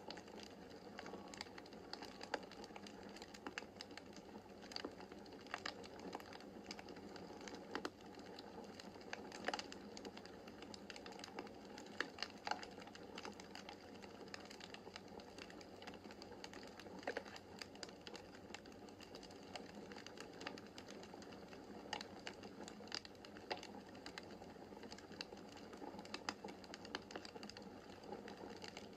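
Wood fire crackling in a fireplace: irregular sharp pops and snaps over a soft steady hiss of flames, with a few louder pops scattered through.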